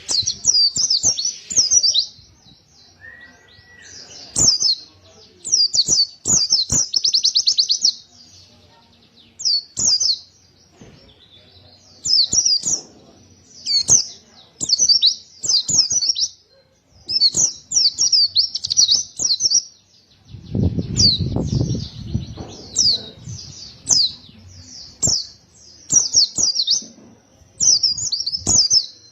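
White-eye (pleci) singing: repeated bursts of high, rapid twittering phrases, each a second or two long with short pauses between. A few sharp clicks are scattered through, and a low rumble comes in about twenty seconds in.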